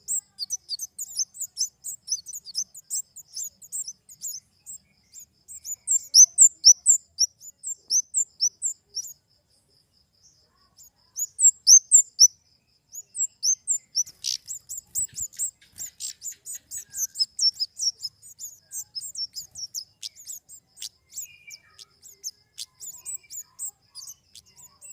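Flowerpecker (kemade) calling: a rapid run of short, high, thin chirps, several a second, with a brief pause about ten seconds in.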